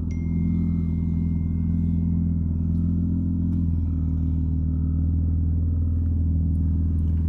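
Honda Accord sedan's engine running at a low, steady drone as the car creeps slowly forward. The engine note steps down slightly a little over halfway through.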